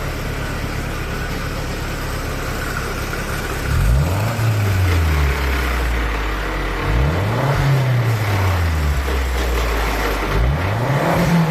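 Mazda Atenza's L3 2.3-litre four-cylinder engine idling steadily, then revved three times in short blips, each rising and falling in pitch.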